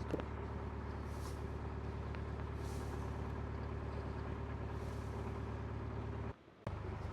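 A narrowboat's diesel engine running steadily at a constant low hum, with a short click at the start and a brief cut-out to near silence about six seconds in.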